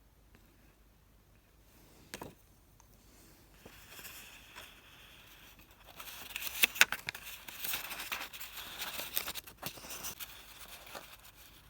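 Tent fabric and gear being handled: near silence at first, then from about six seconds a stretch of crinkling and rustling with many sharp clicks.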